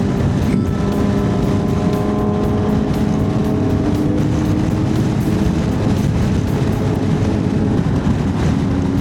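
Honda CB1100's air-cooled inline-four engine running at road speed under heavy wind rumble. The engine note climbs a little in the first few seconds, then holds steady.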